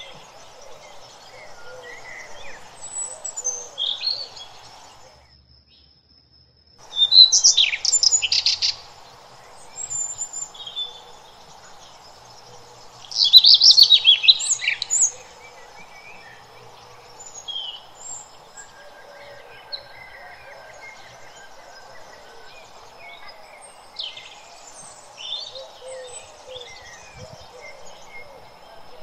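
Birds chirping and calling, with two loud bursts of rapid chattering notes, about seven and thirteen seconds in, over scattered softer chirps. The sound drops out briefly around six seconds in.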